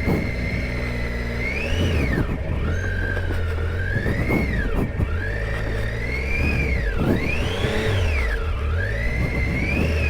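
Triumph Tiger 800 XCa's inline three-cylinder engine revving up and dropping back again and again, about every two seconds, as the throttle is opened and closed.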